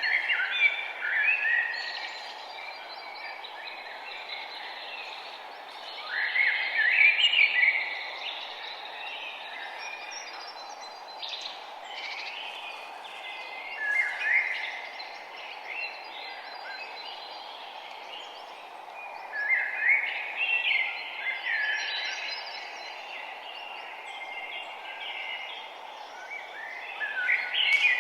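Birdsong: a songbird repeats a short song phrase of a second or two about every six seconds, with fainter chirps between, over a steady background hiss.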